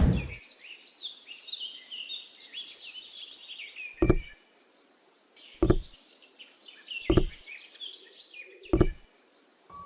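Birds chirping over an outdoor background, with four loud, dull knocks about a second and a half apart in the second half. There is also a low thump right at the start.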